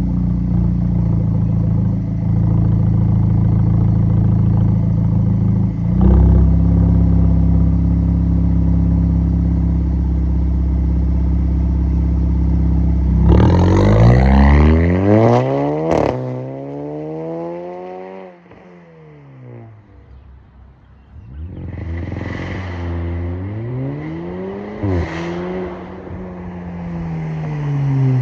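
Audi A4 B9 exhaust with the front and middle resonators deleted and the factory mufflers kept: the engine holds a steady drone for roughly the first half. Then it is revved up and let fall several times in rising and falling sweeps.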